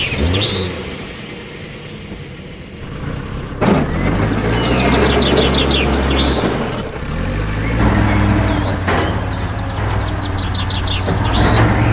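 A vehicle engine sound starts with a click about four seconds in and then runs steadily with a low hum. Birds chirp in repeated rising series throughout.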